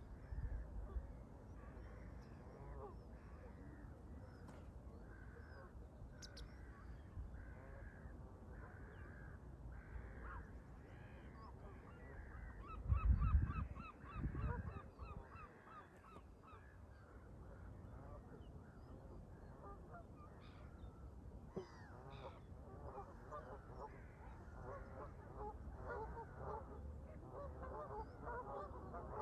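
Canada geese honking, one call about every second at first, then a flock calling over each other more densely near the end. About halfway through, a low rumble of wind on the microphone is the loudest sound.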